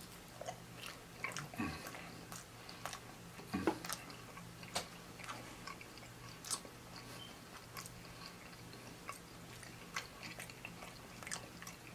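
A person chewing a bite of pepperoni pizza close to the microphone: irregular soft, wet mouth clicks and smacks, several a second.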